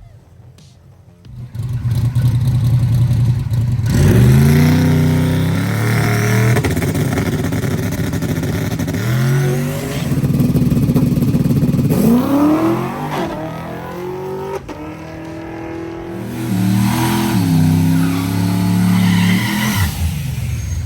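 Full-size race truck's V8 engine running hard under acceleration. Its pitch climbs and drops back about four times, like upshifts through the gears. It starts after a quiet first second or so.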